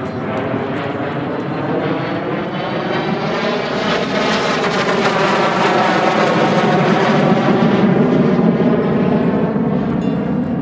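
Twin-turbofan Kawasaki T-4 jet trainer flying past, its roar growing louder over several seconds to a peak near the end, with the wavering, sweeping tone of a passing jet.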